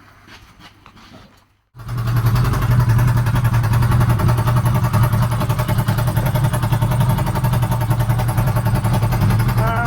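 Kawasaki GT750's air-cooled inline-four engine running steadily, coming in abruptly about two seconds in, with its ignition pickup coils newly replaced.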